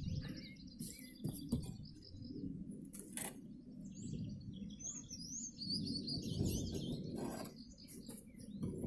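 Small birds chirping in quick twitters, in two spells, over low rustling noise, with a few sharp knocks.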